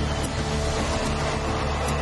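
A steady low engine rumble with background music.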